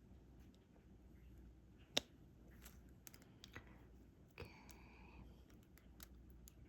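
Faint, scattered clicks and taps of a diamond-painting stylus picking up drills and pressing them onto the canvas, with one sharper click about two seconds in and a brief faint squeak a little past halfway.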